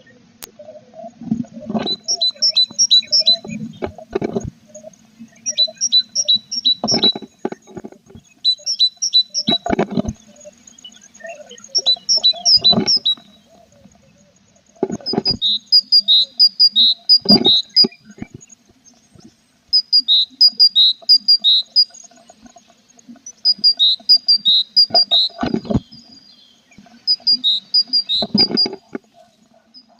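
Tit nestlings in a nest box give bursts of rapid, high-pitched chirps, a group of several notes every two to three seconds. Scratching and knocking from the birds moving in the box comes with several of the bursts, over a faint steady hum.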